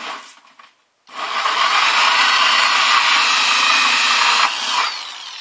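Power drill with a hole saw cutting through the liner, a steady rasping cut for about three and a half seconds, then the drill winds down with a falling whine.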